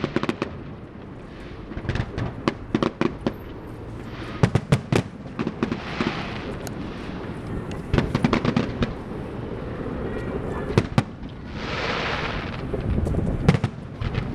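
Fireworks going off: many sharp bangs at irregular intervals, with stretches of hissing between them.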